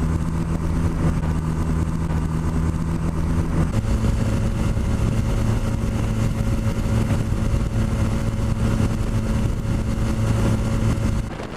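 Motorcycle engine running steadily at riding speed, with wind noise on the microphone. The engine note shifts in pitch about four seconds in and drops away near the end.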